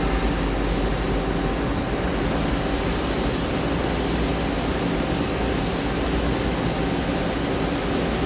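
Steady hum and hiss of a Nakamura-Tome AS-200Y CNC turning center standing powered up, with a higher hiss coming in about two seconds in and holding.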